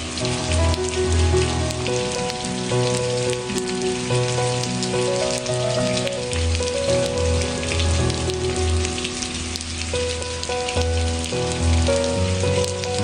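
Steady rain falling on a surface, with fine ticks of single drops, mixed with slow ambient music of held notes over a low bass line.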